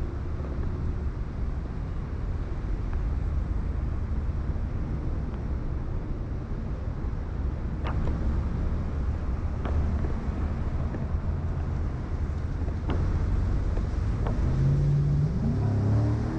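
Street ambience in heavy rain: a steady low rumble of wind and traffic, with a few sharp ticks. Near the end a vehicle engine rises in pitch.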